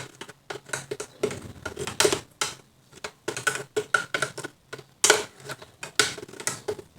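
Kitchen utensils and containers being handled: a run of light, irregular clicks and taps.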